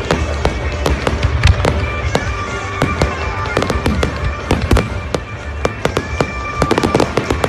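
Fireworks going off: a steady run of sharp pops and crackles, thickest near the end.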